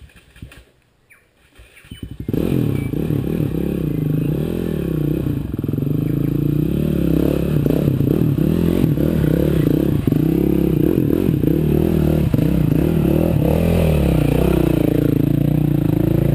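Trail bike engine starting about two seconds in, then running loudly with the revs rising and falling as the bike pulls away.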